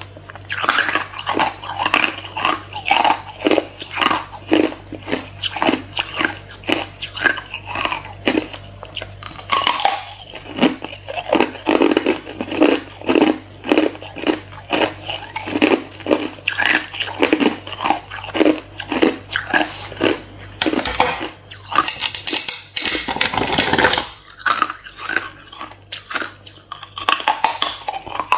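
Hard clear ice being bitten and chewed close to the microphone: a rapid train of crunches, a few a second. A denser, steadier crunching noise breaks the rhythm for about two seconds near the end.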